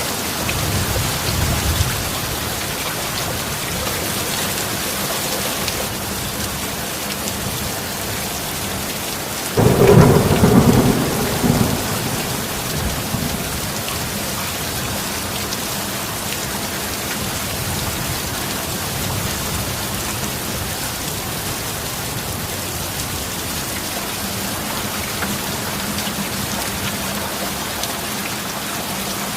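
Steady heavy rain with thunder: a faint low rumble near the start, then a sudden loud thunderclap about ten seconds in that rolls off over two seconds or so.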